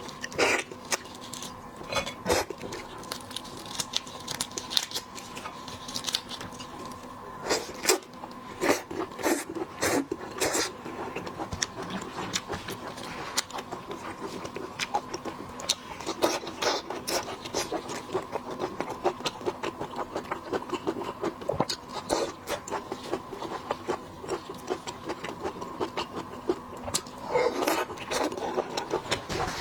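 Shrimp being peeled and eaten up close: an irregular run of crisp crackles and clicks from shells cracking and pulling apart, mixed with wet chewing, over a faint steady hum.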